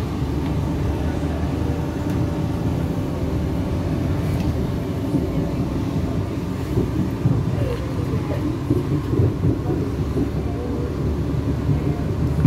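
Cabin sound of a CAF-built diesel multiple unit pulling away and gathering speed: a steady low rumble of the diesel engine and wheels on the rails. A faint tone rises in pitch partway through.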